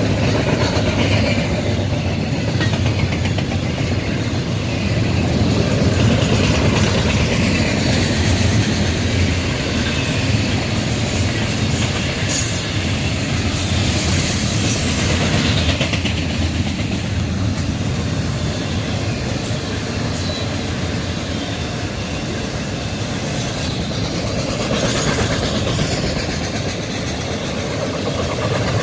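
Double-stack intermodal container train rolling past at close range: steady loud rolling noise of steel wheels on rail from the well cars, with a thin high wheel squeal around the middle.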